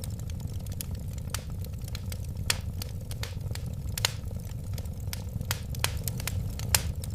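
Wood fire burning in a fireplace: frequent irregular crackles and pops, a few louder snaps among them, over a steady low rumble of the flames.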